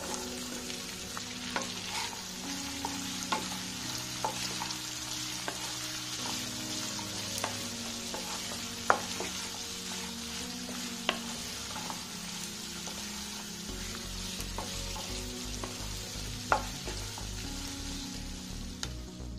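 Sliced onions sizzling in hot mustard oil in a frying pan, a steady hiss, stirred with a wooden spatula that clicks and scrapes against the pan every second or two.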